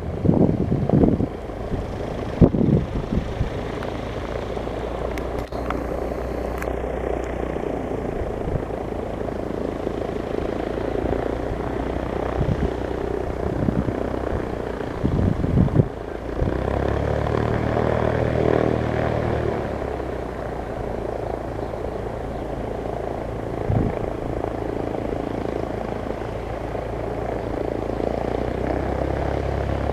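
Light single-engine piston propeller airplane running, a steady engine drone that grows stronger about 17 seconds in. Wind gusts on the microphone near the start and again around 15 seconds.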